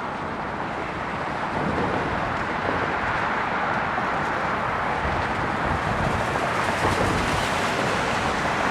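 Jet engines of an arriving Airbus A321neo: a steady rushing noise that grows slowly louder, with no separate knocks or pitched lines.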